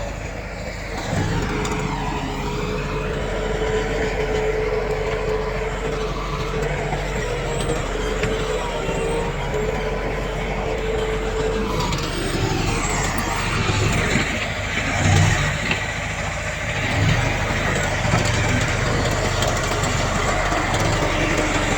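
Heavy diesel earthmoving machinery working, its engine running steadily with a low rumble. A steady whine sounds over it through roughly the first half.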